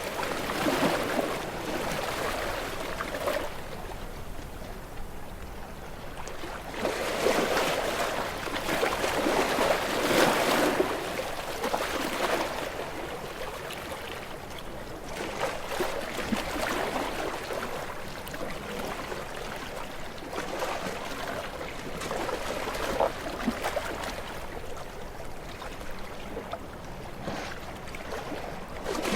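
Small waves washing onto a shore, the rush of water swelling and fading in irregular surges a few seconds apart.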